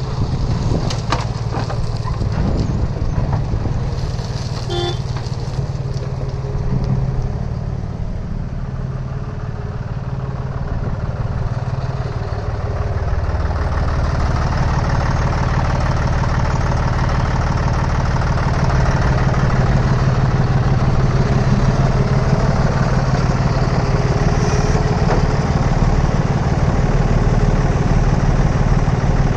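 Diesel engine of a backhoe loader running steadily while it works, growing louder about halfway through. There are a few knocks near the start and a short high tone about five seconds in.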